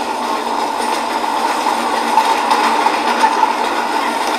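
Passenger train running along the track, heard from alongside a moving coach: a steady rush of wheel and wind noise with faint ticks.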